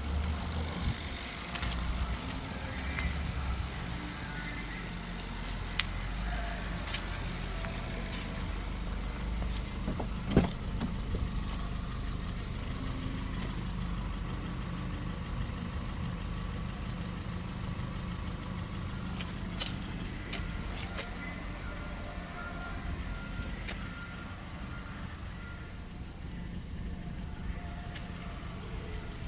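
2012 Ford Fiesta's 1.6-litre four-cylinder engine idling steadily, with a few sharp clicks about ten and twenty seconds in.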